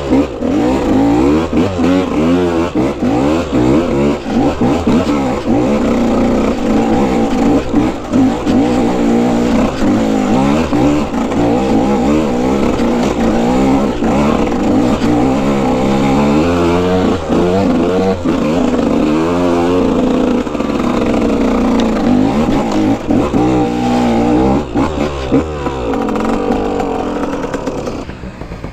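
Dirt bike engine being ridden hard, revving up and falling back over and over as the throttle opens and closes. Just before the end it drops to a lower, steadier sound.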